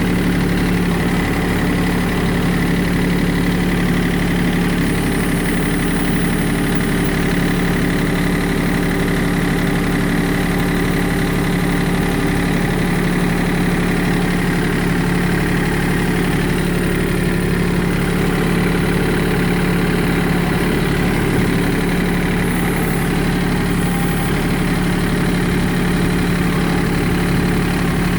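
Kubota tractor's diesel engine running steadily at an even speed, not revving.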